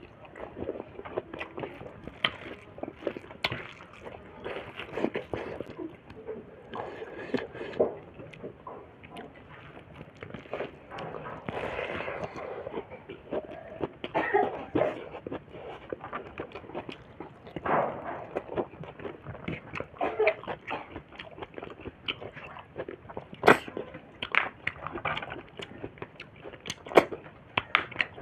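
A person eating snails and pork close to the microphone: irregular chewing, smacking and crunching sounds, with a longer noisy stretch about twelve seconds in.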